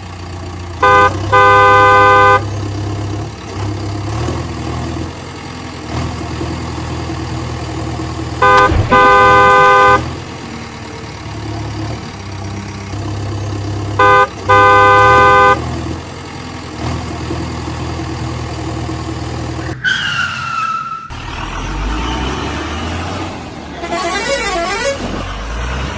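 Truck engine sound running steadily, with a truck horn honked three times, each a short toot followed by a longer blast. A short falling tone is heard about twenty seconds in.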